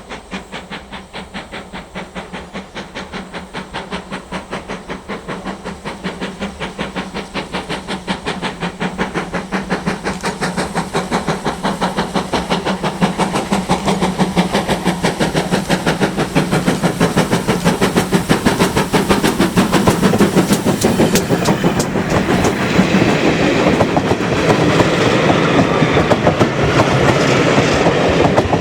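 Steam train running with a fast, steady rhythmic beat of about three to four strokes a second, growing steadily louder as it approaches.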